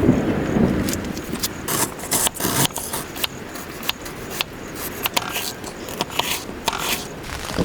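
A string of irregular short scrapes and crackles.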